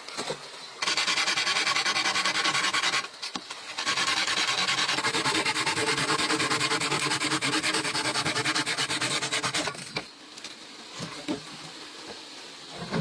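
Fast, even rasping of a tool working bamboo, like sanding or sawing, in two runs with a short break about three seconds in; it stops about ten seconds in, leaving a few light knocks.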